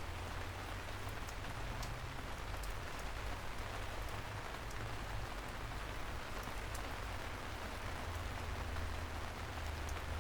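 Steady light rain falling on a street: an even hiss with scattered sharp drop ticks, over a low steady rumble.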